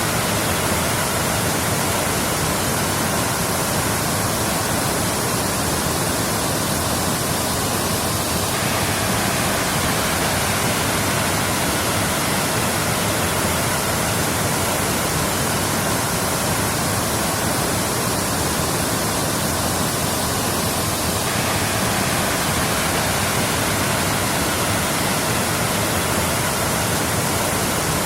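Waterfall: water falling and rushing in a steady, even roar with no change in level.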